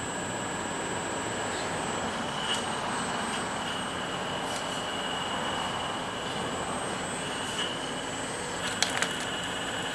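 RC4WD model excavator's hydraulic system running, a steady mechanical whine with a hiss underneath, and two sharp clicks about nine seconds in.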